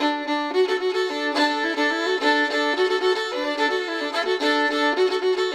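Background music: a fiddle playing a tune in short, quick notes, often sounding two notes at once.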